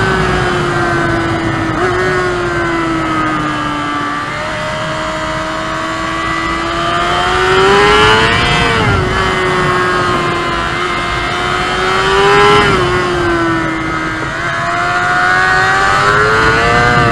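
Honda CBR600RR's inline-four engine pulling hard through a run of bends, revs falling and rising: building to peaks about eight and twelve seconds in and again near the end, easing off between.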